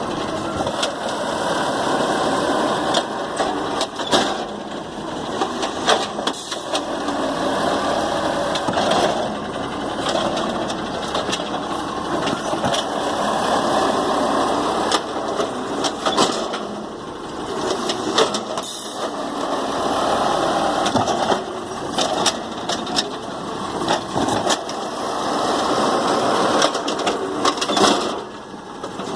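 Garbage truck's engine running steadily, with repeated sharp bangs and knocks as trash is picked up.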